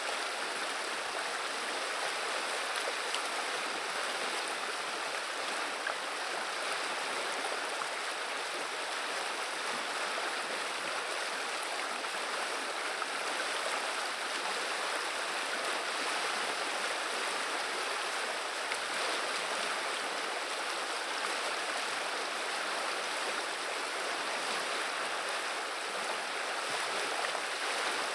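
River water running and babbling, a steady even rush with no breaks.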